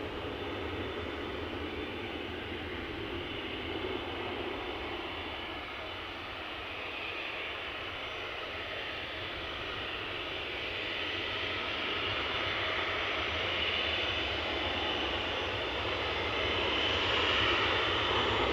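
Airliner engine noise: a steady rush that slowly grows louder toward the end.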